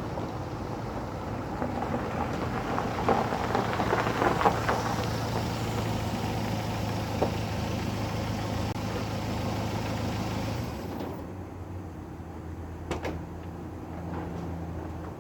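Steady low mechanical hum with scattered clicks and knocks; the hum stops about eleven seconds in, leaving a quieter hum and a few more knocks.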